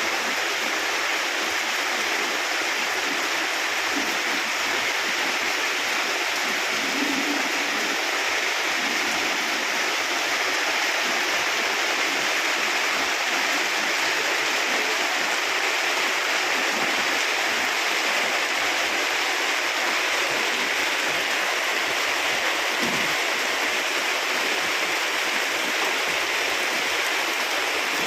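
Steady rush of water from heavy monsoon rain, an even hiss of noise that does not change.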